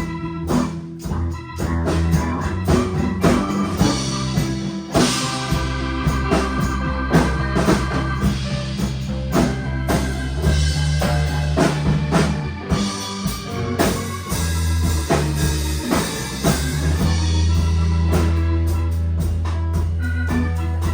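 A rock band playing: drum kit, electric guitar and bass guitar, with steady bass notes under a regular drum beat.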